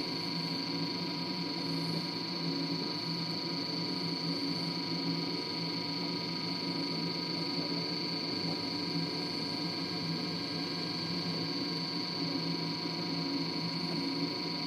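LG DirectDrive F1496AD washer dryer running its drying cycle, the drum tumbling a load of towels. It makes a steady hum with a constant high whine.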